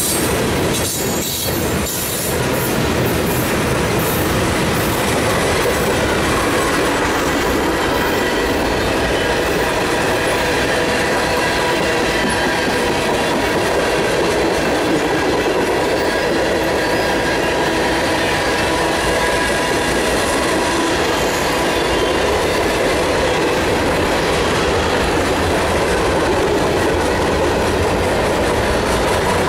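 Freight cars of a mixed freight train rolling past: a steady rumble and rattle of steel wheels on rail, with a thin, steady squeal of wheels running through it.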